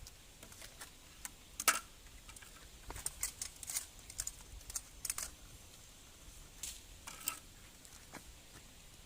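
Scattered light clicks and taps at irregular intervals, as of small objects being handled and set down.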